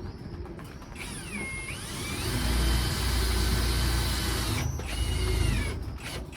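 Electric drill-driver driving a small pointed self-tapping screw: the motor whines up about a second in, runs under load for a few seconds and stops, then gives a second short whine near the end.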